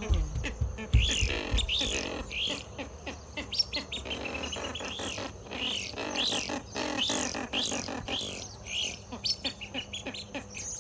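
A pair of ducks calling insistently: a fast series of short, high rising-and-falling notes, a couple a second, over lower, harsher calls in the first couple of seconds and again past the middle.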